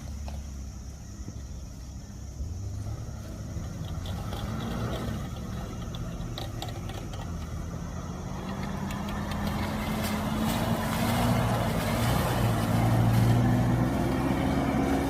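Isuzu Trooper engine running under load, its pitch slowly climbing and the sound getting louder through the second half as the vehicle pulls away.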